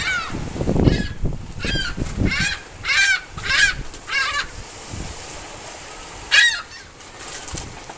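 Seagulls calling: a run of about six short, harsh calls roughly half a second apart, then one loud call past the middle. A low rumble sits under the first second or so.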